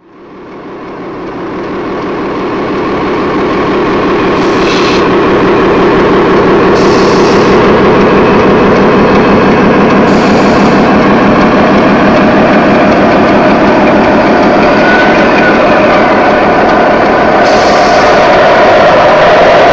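A steady engine-like running sound fades in over the first few seconds and then holds. Four short hisses come through at intervals.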